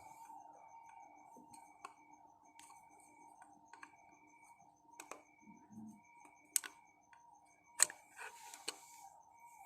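Faint, scattered clicks and knocks of small hard objects being handled, with two sharper knocks in the second half, over a faint steady hum.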